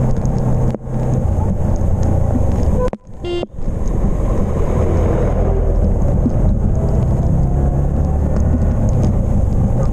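Yamaha MT-15's single-cylinder engine running steadily while riding, with wind noise on the microphone. The sound briefly drops away about three seconds in.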